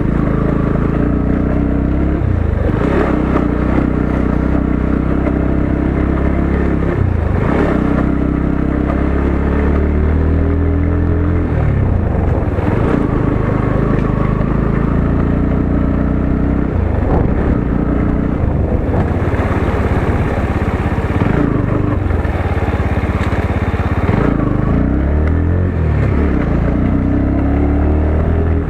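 Motorcycle engine running under way, its pitch rising and falling over and over as the throttle opens and closes and the rider shifts gears.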